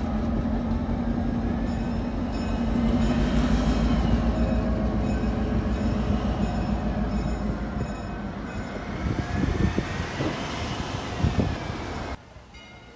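Train rolling past with a steady rumble and faint high wheel squeal, cutting off abruptly near the end.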